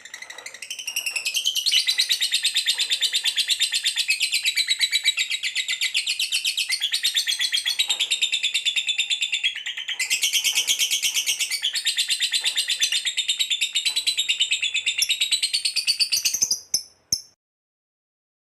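Small cage birds singing a continuous stream of rapid chirps and trills, a masteran mix of canary, lovebird and house sparrow song. It breaks off abruptly near the end into silence.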